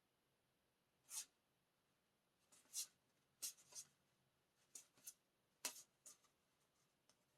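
Paper and card being handled: a series of short, sharp rustles and scrapes, about eight brief strokes with quiet gaps between, the clearest ones near the middle.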